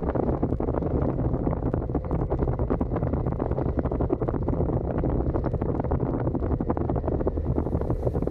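Suzuki SV650's V-twin engine through its stock exhaust, running steadily at an even cruising pitch, with wind buffeting the microphone.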